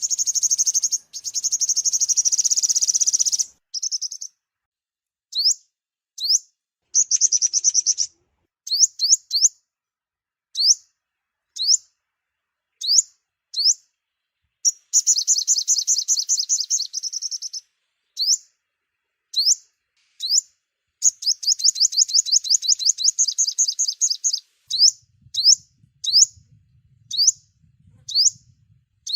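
Sunbird song: high, rapid trills of a few seconds each, alternating with single short rising chirps about a second apart.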